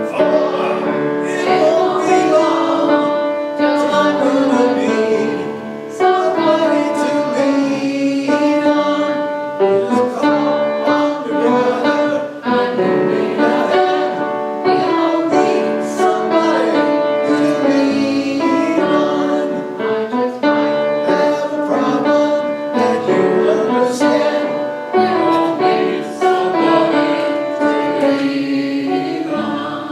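A song in a church service: singing with instrumental accompaniment, continuous and steady in level.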